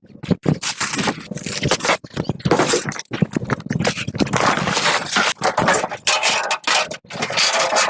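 Irregular scraping and rustling: a quick, uneven run of short rough strokes, with no steady machine tone.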